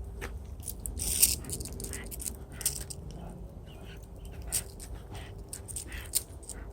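Walking noise on a dog walk: scattered clicks and scuffs, with a louder hissy scuff about a second in, over a steady low rumble on a handheld phone's microphone.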